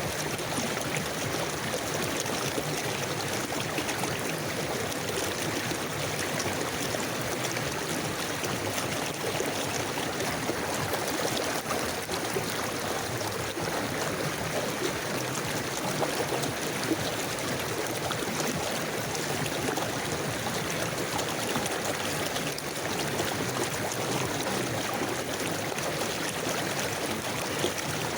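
River water flowing steadily over stones, a constant rushing with fine gurgles and splashes.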